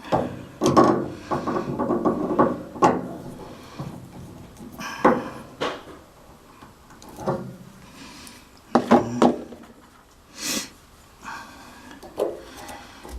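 Tools and metal parts of a gas water heater's burner assembly being handled: scattered knocks, rattles and scrapes, with a busy run of clattering in the first few seconds.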